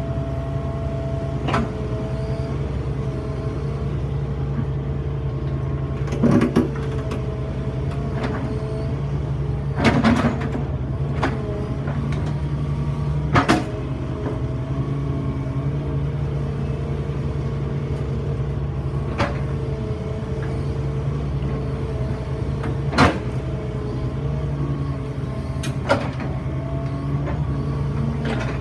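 Excavator's diesel engine running steadily, with sharp knocks and clunks every few seconds as rocks strike each other and the bucket while they are set into a wall.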